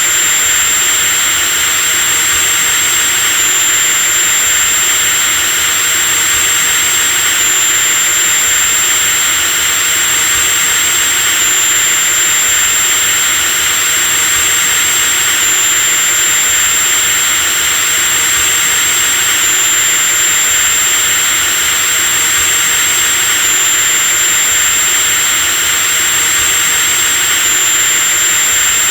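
Electric drill running continuously at a steady speed: a loud motor hiss with a high, thin whine over it, its pitch shifting slightly about every four seconds.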